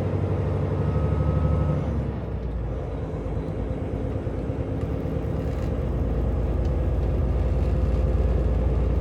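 Semi-truck's diesel engine running on the road, heard from the cab. About two seconds in, the engine note drops and goes quieter, then slowly builds back up.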